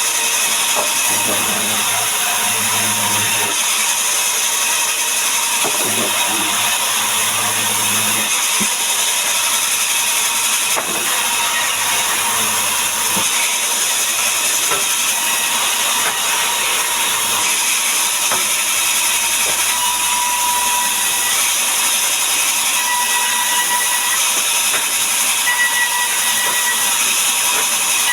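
A powered wood saw runs steadily, cutting timber, with a continuous loud, hissing machine noise.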